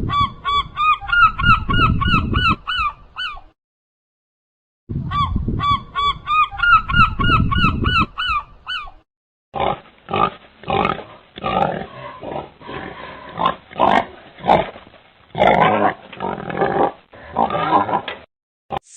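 Animal honking calls: two bouts of quick repeated nasal honks, about five a second, with a pause between, then a longer stretch of rougher, irregular calls.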